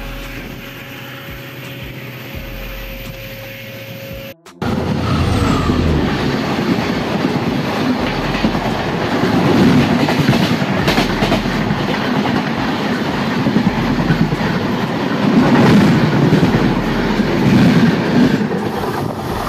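Passenger train running at speed: a loud, even rumble of wheels on the rails with occasional clacks at rail joints. It starts abruptly about four seconds in, after a quieter steady hum.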